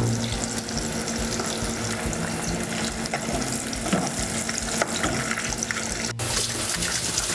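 Meatballs cooking in a pan with a steady bubbling, sizzling hiss. At first they simmer in tomato sauce. After a brief break about six seconds in, they deep-fry in hot oil and the sizzle turns brighter.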